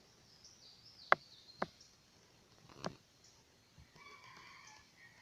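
Three sharp clicks, about a second in, half a second later and near three seconds, over faint distant bird calls that may be a rooster crowing.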